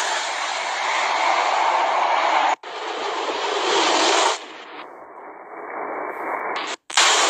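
Loud jet engine roar of fighter jets making low passes, in several short clips spliced together. The sound cuts off abruptly about two and a half seconds in and again just before seven seconds, with a duller-sounding stretch in between.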